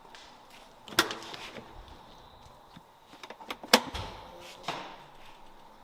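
Two sharp clicks, about a second in and again just before four seconds, with lighter ticks between: a Nissan 240SX's trunk latch being released and the lid opened.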